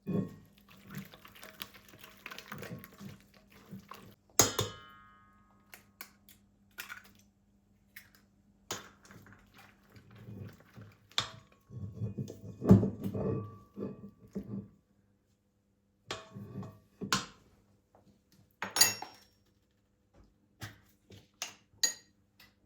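Kitchenware being handled: scattered clinks and knocks of dishes and utensils on a counter, with a brief ringing clink about four seconds in and a run of heavier knocks about halfway through, over a steady low hum.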